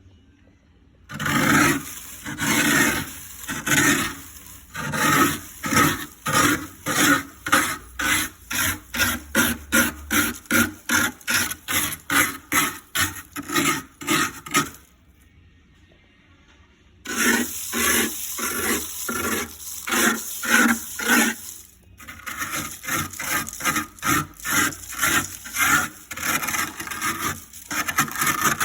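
Built-up ice being scraped out of a deep freezer in repeated strokes. The strokes start slowly, speed up to about two or three a second, stop for a couple of seconds past the middle, then return as longer, near-continuous scraping.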